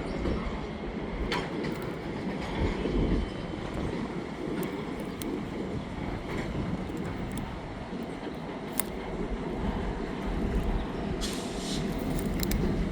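Freight cars and the CN GP40-2W and GP38-2 diesel locomotives rolling slowly through the yard during switching, with a steady low rumble and scattered sharp clicks and knocks from wheels and couplers. A faint thin squeal rises briefly a few seconds in.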